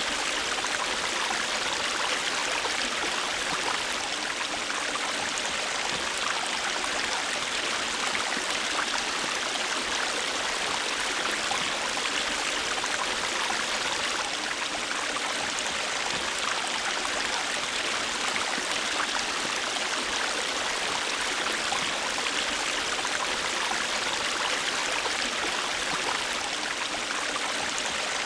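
A river or stream running over rocks: a steady rushing and babbling of water, with no change in level.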